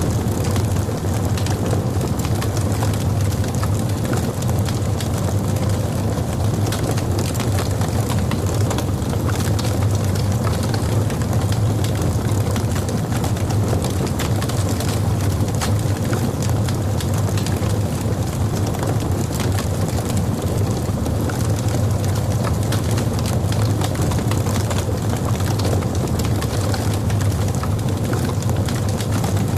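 Wood fire burning in a fireplace: a steady low roar of flames with constant small crackles and pops from the logs.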